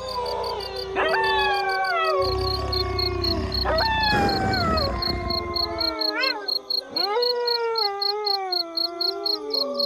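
Several wolves howling together in a chorus: overlapping howls that rise sharply, then slide slowly down in pitch, with new howls joining at about one, four and seven seconds in. An insect chirps behind them in fast, even pulses.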